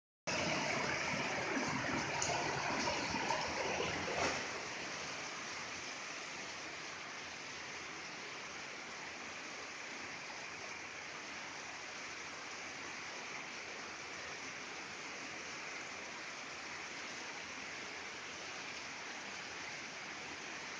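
Heavy rain pouring down onto corrugated metal roofs and a concrete yard, a steady hiss. It is louder and fuller for the first four seconds, ending in a short knock, then settles to an even, quieter downpour.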